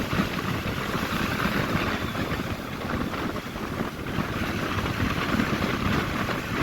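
Wind buffeting the microphone over the steady noise of a moving motorcycle, an even rumble with no single pitch standing out.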